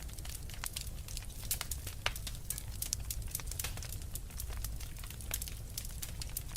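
Wood fire crackling, with many sharp pops and snaps of different strengths, several a second, over a low steady rumble.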